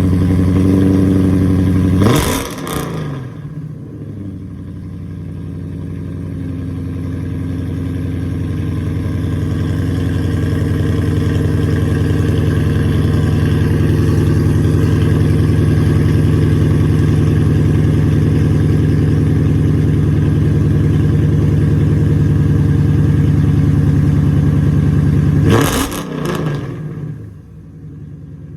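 An engine running steadily. Its pitch drops sharply with a short rough burst about two seconds in and again near the end.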